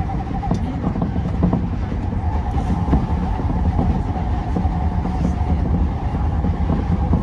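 Tokyo Metro 10000 series train running at speed, heard from inside the front car: a steady rumble of wheels on rail with a constant mid-pitched tone and a few faint clicks.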